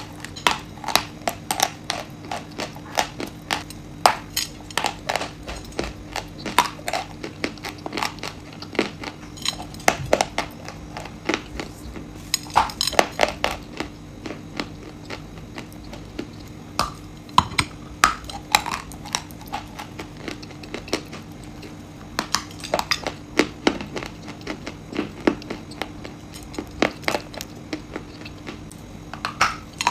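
Close-up irregular clicks and taps of a utensil against a dish, some with a slight ring, with a little light crunching mixed in.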